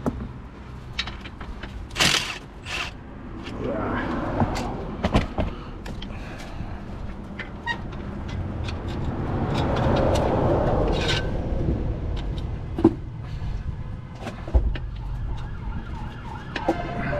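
Scattered metallic clinks and knocks from hand tools and car parts during clutch and flywheel work, with passing traffic swelling up and fading about ten seconds in.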